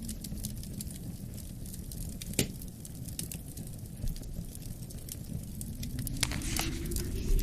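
Wood fire crackling with scattered sharp pops, one stronger pop about two and a half seconds in, over a steady low wind rumble that swells near the end.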